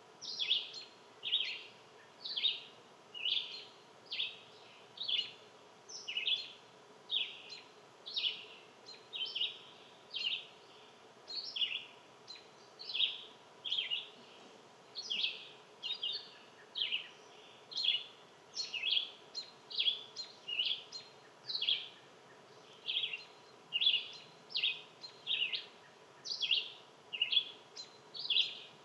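Bird chirping: a long, steady run of short, sharp, downward-sweeping chirps, about one to two a second, sometimes in quick pairs.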